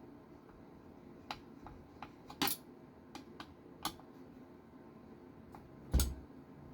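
Small metal clicks and clinks of screws and hand tools being handled on a workbench, with a heavier knock about six seconds in as something is set down.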